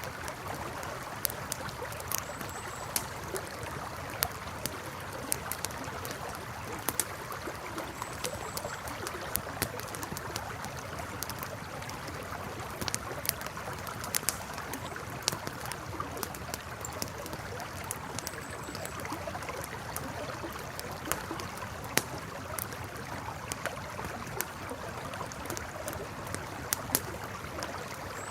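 Campfire crackling with frequent sharp, irregular pops over the steady rush of a flowing river.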